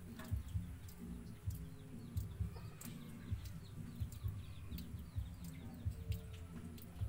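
Birds calling, with short low clucking notes a few times a second and a few brief high chirps.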